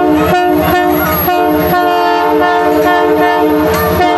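Diesel locomotive's multi-chime air horn sounding a chord in several short blasts and then a longer one, with the engine's low rumble running underneath.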